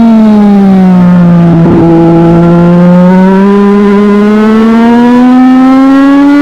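Legend race car's Yamaha motorcycle engine running hard at race speed. Its pitch falls over the first two seconds as revs drop for a corner, with a brief rough patch near the bottom, then climbs steadily as the car accelerates back out.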